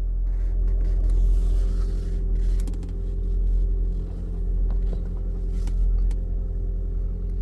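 Car engine running steadily, heard from inside the cabin: a constant low rumble and hum, with a few faint clicks.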